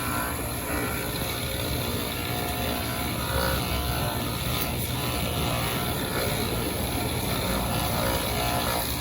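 Cobbler's motorised sanding machine running steadily while a rubber shoe sole cut from an aircraft tyre is ground against it.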